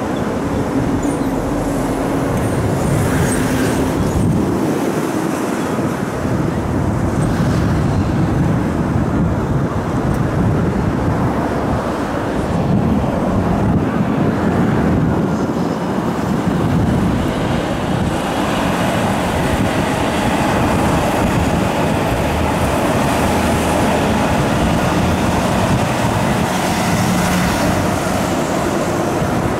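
Electric commuter trains running past on an elevated viaduct, among them a Seibu 6000 series: a steady rumble of wheels on rail with a faint steady hum, running on without a break.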